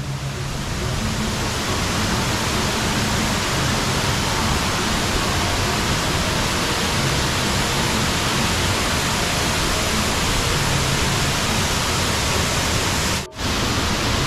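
Waterfall: a steady, dense rush of falling water, with a brief dropout near the end.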